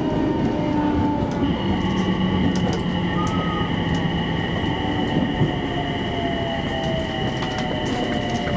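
Electric commuter train running, heard from the driver's cab, with scattered sharp clicks of the wheels over the track. Several motor whines fall slowly in pitch, and a steady higher whine joins about a second and a half in.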